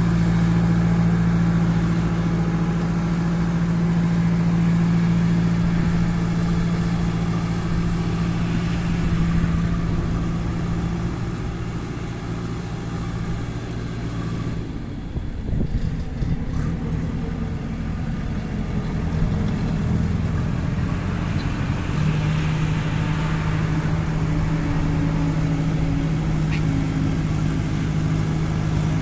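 Kirloskar diesel engine of a JCB 2DX backhoe loader running with a steady hum. Roughly halfway through, the even note breaks up and the sound turns rougher for several seconds, then settles back to the steady hum near the end.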